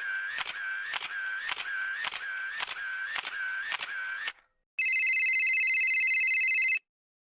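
A sound effect of repeated mechanical clicks, about two a second, each with a short wavering ring, stopping after about four seconds. After a short pause comes a steady electronic ringing tone of several pitches held for about two seconds.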